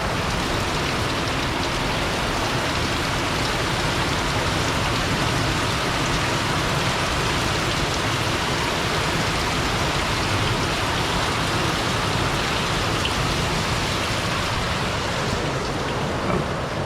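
Heavy rain falling steadily in a thunderstorm, an even, unbroken hiss.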